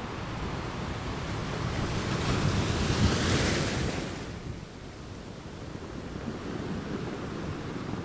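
Ocean waves: a wave swells and washes in, loudest about three seconds in, then falls back to a lower rush of surf that builds slightly again near the end.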